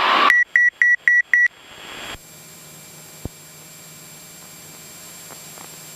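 Five short electronic beeps in quick succession, about four a second, over the cockpit audio. Then the loud aircraft noise cuts off suddenly to a faint steady hum.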